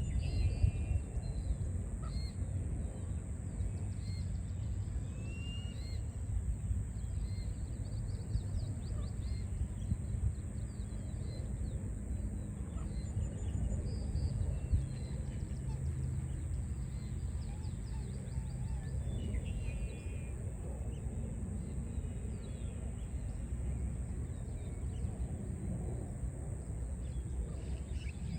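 Songbirds chirping and trilling in short calls throughout, over a steady low rumble of city traffic.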